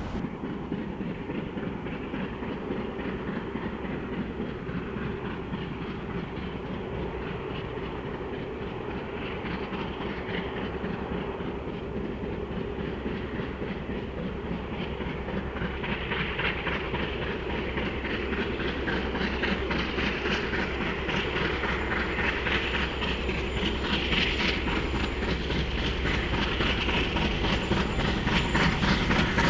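A steam-hauled train headed by Bulleid Pacific 34067 Tangmere running along the line, with a steady rush of running gear and wheels clicking over the rails. It grows steadily louder, with more high-pitched rattle from about halfway on, as the train draws nearer.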